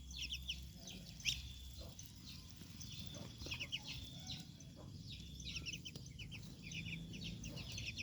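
Young ducklings peeping: many short, high-pitched, falling calls, often in quick runs, from several birds at once.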